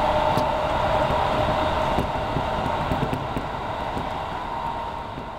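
Running noise heard inside a JR 205 series electric train at speed: a steady rumble with a held whine and a few scattered clicks. The sound fades down near the end.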